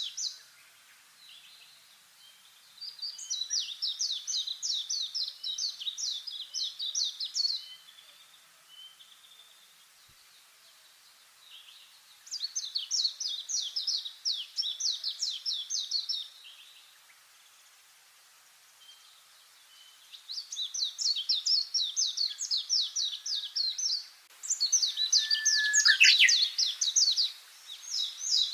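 A songbird singing a fast, high trill of rapid repeated notes. Each phrase lasts about four seconds, and the phrase comes four times with pauses between; the last two follow close together.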